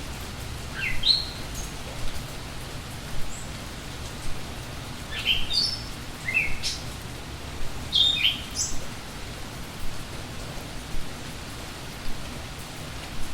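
Steady rain with songbirds chirping over it: a few short rising chirps about a second in, then a busier run of chirps between about five and nine seconds.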